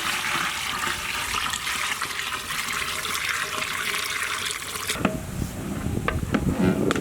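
Water poured in a steady stream into a large cooking pot of chicken and spices. The pouring stops about five seconds in, followed by a few clinks and knocks.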